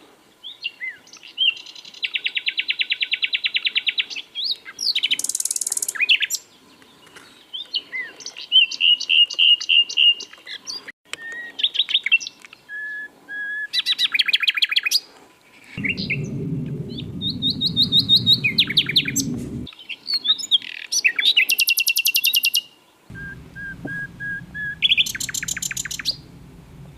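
Common nightingale singing, phrase after phrase with pauses between: fast rattling trills of repeated notes, buzzy runs and pure drawn-out whistles. A low rumble comes in underneath about two-thirds of the way through, stops briefly, and returns near the end.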